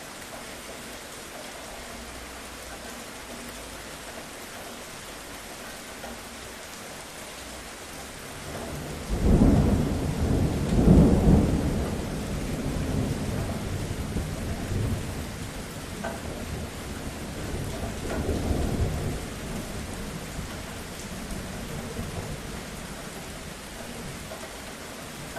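Steady rain falling, with a roll of thunder breaking in about a third of the way through: a sudden deep rumble that peaks over the next few seconds, then rolls on and fades with a smaller swell about two-thirds in.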